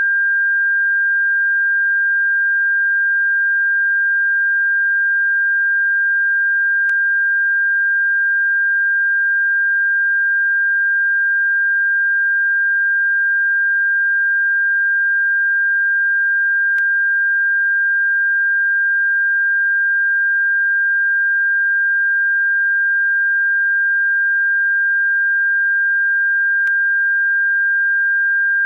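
Electronic sine tone from a bird-repellent track: one high, steady pure tone held without change, with faint clicks about every ten seconds.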